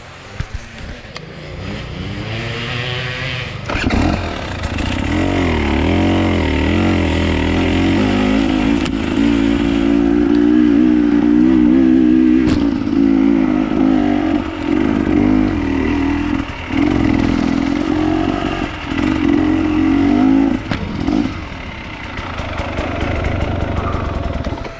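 Enduro dirt bike engine under varying throttle: it builds up, holds a strong steady pull for several seconds, then is shut off and opened again several times in quick succession, with a few knocks and clatter along the way.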